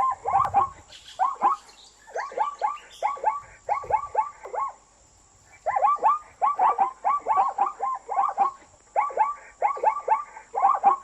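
Zebra calling: bouts of short, bark-like yelps repeated several times a second, with a brief pause about halfway.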